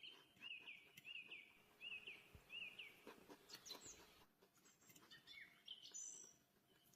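Faint bird chirping: a run of about six short high chirps in quick succession, then a few scattered higher chirps mixed with light clicks.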